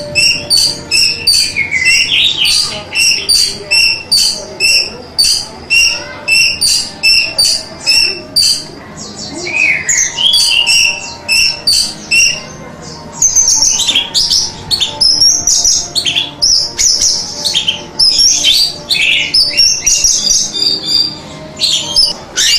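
Orange-headed thrush (anis merah) singing: a long run of quick, repeated high whistled notes at about three a second. About 13 seconds in it gives way to a denser, varied stream of fast sliding notes.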